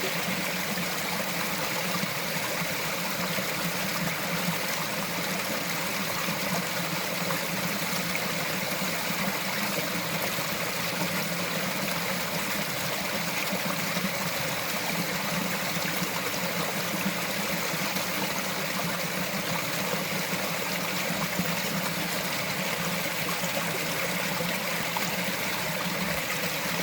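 Small forest mountain stream flowing and trickling over rocks, a steady even rush of water.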